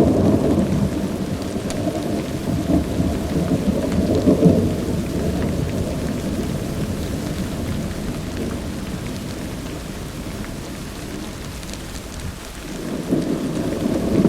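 Thunder rumbling over steady rain. The rumble peaks about four seconds in, dies down around twelve seconds, and a new roll of thunder builds near the end.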